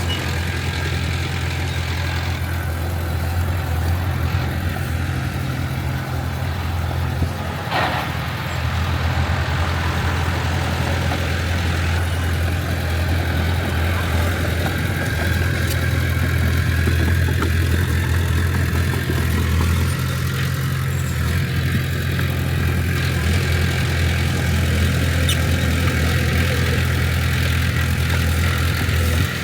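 Heavy diesel engine of earthmoving equipment running steadily with a deep, even drone, and a brief sharp sound about eight seconds in.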